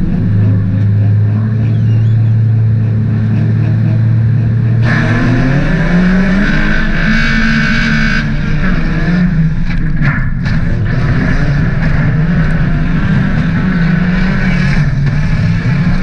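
Inside the stripped cabin of a Mk3 VW Golf, its 1.8-litre 20-valve four-cylinder engine runs at a steady pitch, then about five seconds in it is revved hard and the pitch climbs as the car pulls away on dirt. Loud rattling and road noise from the bare shell run over the engine.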